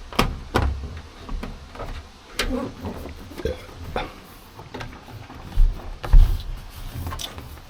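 Irregular knocks, taps and low thumps of sound-deadening sheets being handled and pressed onto the truck cab's sheet-metal panels, the loudest thumps about six seconds in.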